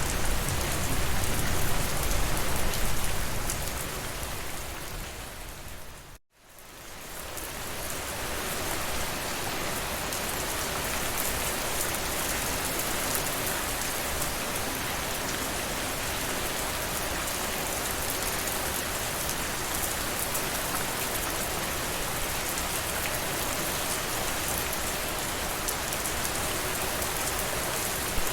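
Steady rainfall, a dense hiss of drops on surfaces. About six seconds in, it fades out to a moment of silence and fades back in as slightly quieter, even rain.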